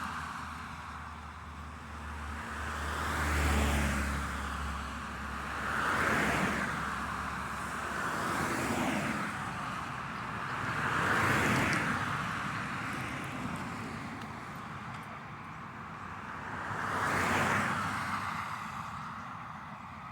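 Road traffic: about five cars passing one after another, each swelling up and fading away, the first with a low engine rumble.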